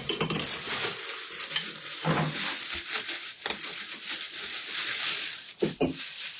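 Packaging being handled and crinkled while lamp parts are unwrapped: a steady crackling rustle, with a couple of dull knocks, about two seconds in and near the end.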